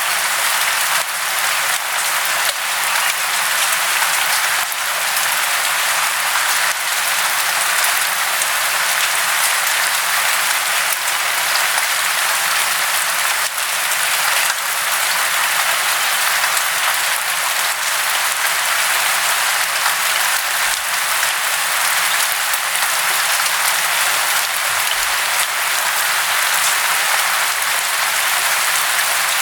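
Falling water: a steady, unbroken hiss.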